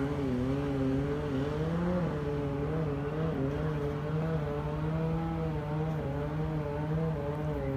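A motorboat engine passing along the canal, running with a steady drone whose pitch wavers slightly up and down.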